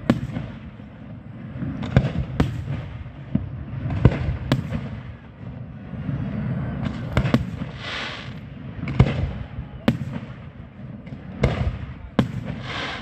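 Aerial fireworks shells bursting: about ten sharp bangs at uneven gaps, some in quick pairs. There are longer stretches of crackling about two-thirds in and near the end, over a steady low rumble.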